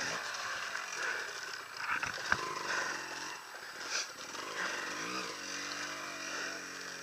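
Off-road motorcycle engine revving up and down in bursts, the revs held for about a second near the end. A sharp click about two seconds in.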